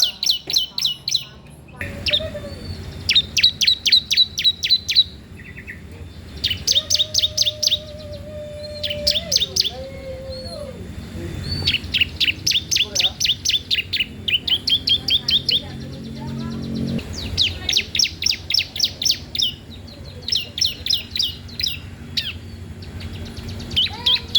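Young cisem songbird singing vigorously: repeated bursts of rapid, sharp, high chirps run together into trills lasting a second or two each, with short pauses between. A fainter, lower, drawn-out note sounds behind it for a few seconds in the middle.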